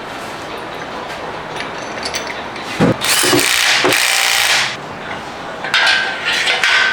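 A power tool run in two bursts of one to two seconds each, the second with a steady whine, after a few scattered ratcheting clicks: hand and power tools working fasteners loose during an engine teardown.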